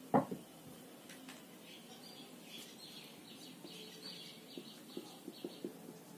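A short thump right at the start, then a quick run of high, rapid chirps, a small bird twittering, followed by a few soft taps of a marker writing on a whiteboard.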